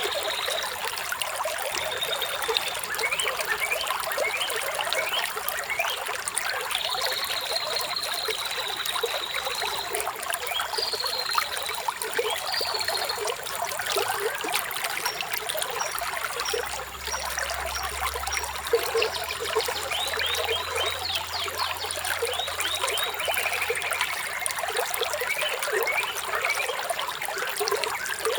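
Flowing water trickling steadily, with birds chirping over it: short high chirps, a long trill about a quarter of the way in, and a run of quick chirps followed by a falling trill past the middle.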